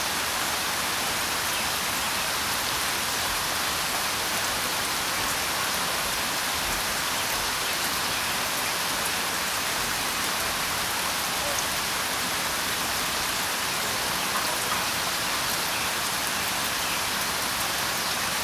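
Steady rainfall, an even hiss of drops falling on a surface that does not change in level.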